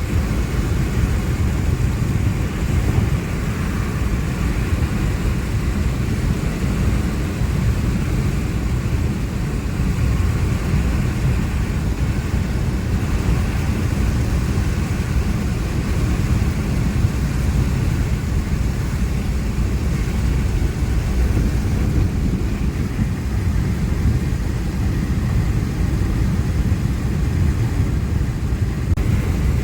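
Steady low rumble of wind and road noise from a vehicle travelling along a road in the rain.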